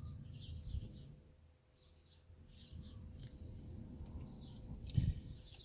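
Small birds chirping repeatedly in short calls, over low handling rumble, with a few sharp clicks and one thump about five seconds in.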